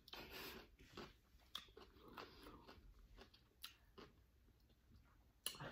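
Faint, irregular chewing and crunching of food close to the microphone, with one sharper click near the end.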